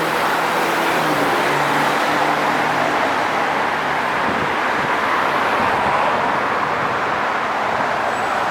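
Steady city street traffic: a continuous hiss of tyres and engines from passing cars, with one vehicle's engine hum standing out for the first few seconds.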